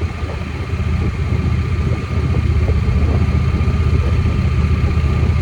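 Motorcycle engine running at low revs with a steady low rumble while coasting downhill, not roaring; it grows a little louder about halfway through.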